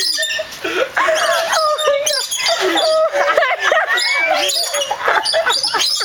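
A flock of small nectar-feeding birds calling and chattering, a busy overlapping mix of short gliding chirps and squawks.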